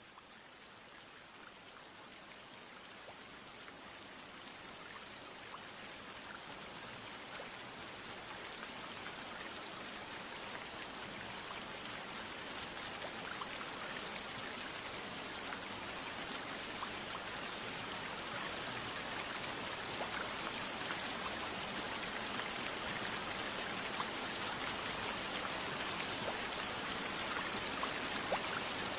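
Steady rain hiss with scattered drop taps, fading in gradually and growing steadily louder.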